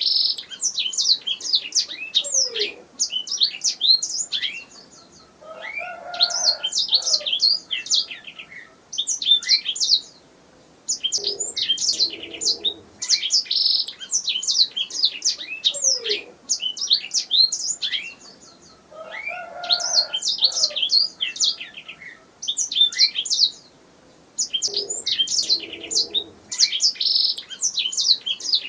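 Domestic canary singing: long phrases of rapid chirps and rolling trills, broken by brief pauses.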